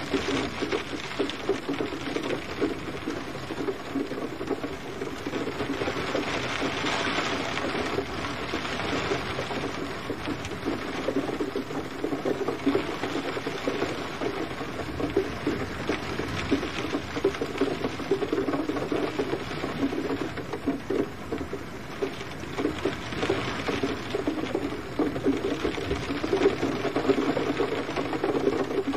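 Steady gentle rain: a dense patter of many small drops falling on a surface, continuous and even.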